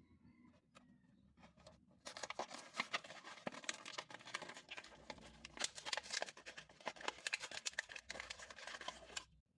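Diecast toy packaging being opened by hand: a dense crackle of many small sharp clicks and tearing noises that starts about two seconds in and stops abruptly near the end.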